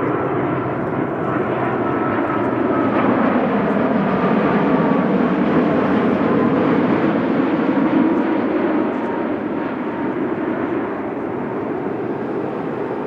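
Jet airliner passing close by on the runway, its engine roar swelling to a peak midway and then easing, with a faint engine whine that falls in pitch as it goes by.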